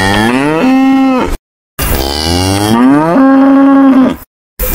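Cow mooing: two long moos, each rising in pitch and then holding steady on one note, with a brief cut to silence between them. A third moo begins at the very end.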